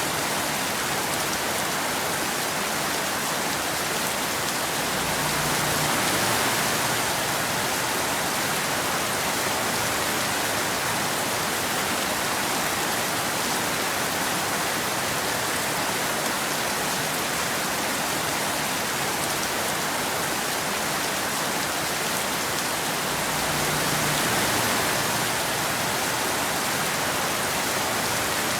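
Steady rain falling, an even hiss of many drops that swells slightly twice.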